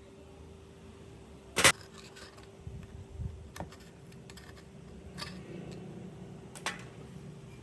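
Metal parts being handled in a workshop: a few sharp clicks and knocks, one loud about a second and a half in and three lighter ones spread after it, over a steady faint hum.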